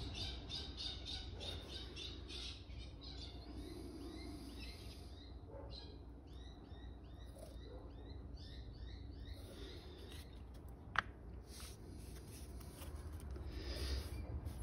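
Faint birds chirping in the background: a quick run of short repeated chirps, then a series of short sweeping chirp notes. A single sharp click sounds near the end.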